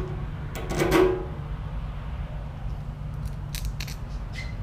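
Light metallic clicks and knocks as a Suzuki GSX-R600's fuel tank is lowered back onto the frame, a cluster about a second in and a few more near the end, over a steady low hum.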